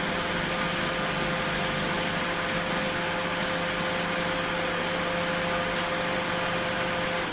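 Hot-wired microwave oven running: a steady hum with a held mid tone over fan noise, which cuts off suddenly at the very end as the oven is switched off.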